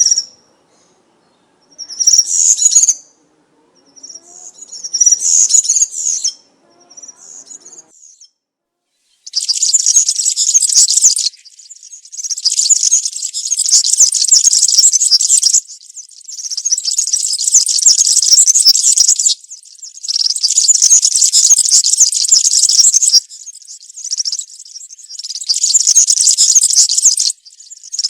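European serin singing: a few short snatches of song over the first eight seconds, then long, fast, high-pitched jingling phrases of a few seconds each, with brief pauses between them.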